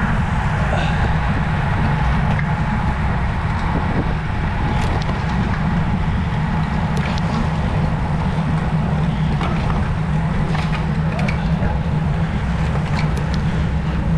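Steady low rumble of wind over the microphone and road noise from a road bike being ridden, with a few faint ticks.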